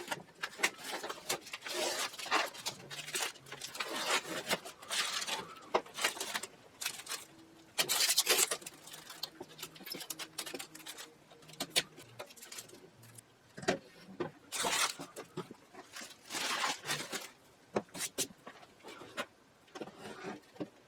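Irregular rubbing, scraping and light knocking: hand work on parts at a workbench, in short uneven bursts with a few sharper clicks.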